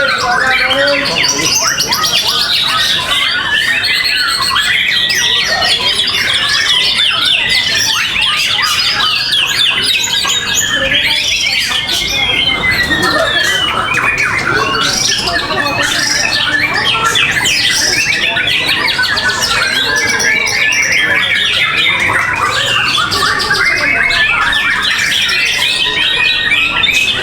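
Many songbirds singing at once: a dense, unbroken chorus of overlapping chirps, trills and squawks.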